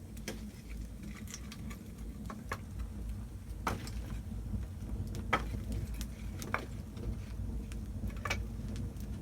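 Wood fire burning in a fireplace: a steady low rumble with sharp crackles and pops at irregular intervals, roughly one a second.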